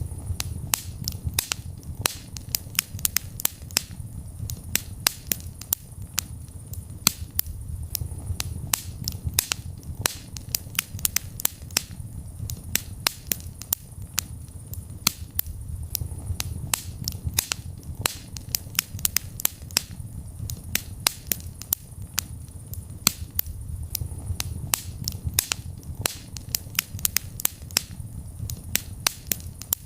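Wood fire burning in a fireplace, crackling with many sharp pops and snaps several times a second over a low, steady rumble of flame.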